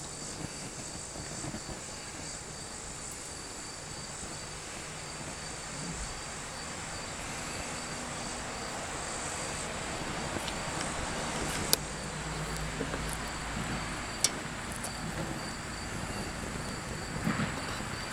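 Fire burning the oil and carbon out of a Lawn-Boy two-stroke mower muffler, a steady rushing of flame that swells a little midway, with a few sharp pops. Crickets chirp steadily throughout.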